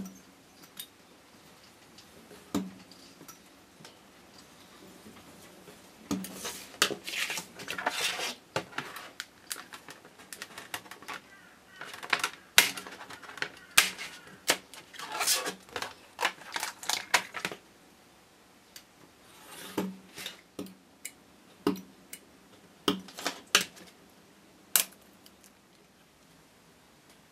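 Handcraft work on small parts: scattered sharp taps and clicks of tools and pieces being set down, with two stretches of rapid scraping or cutting, the longer one in the middle.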